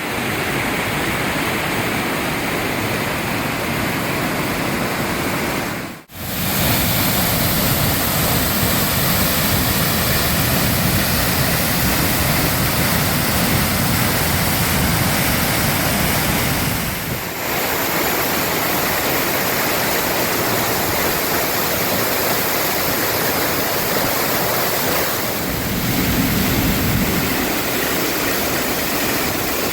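Waterfall's falling water making a steady, loud rush, cutting out for an instant about six seconds in and shifting slightly in tone twice later.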